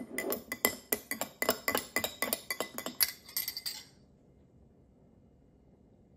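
Light clinking of hard objects, like glass or cutlery, about fifteen sharp clinks in quick, uneven succession that stop about four seconds in.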